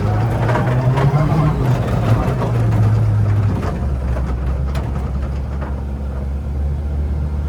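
Ford Fiesta ST rally car engine running at raised revs, then dropping to a low steady idle about four seconds in.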